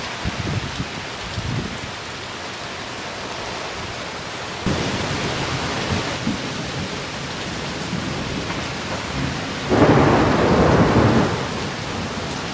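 Steady rain falling on a pitched tarp, a little louder from about five seconds in, with a stronger low rumble lasting a second or two near the end.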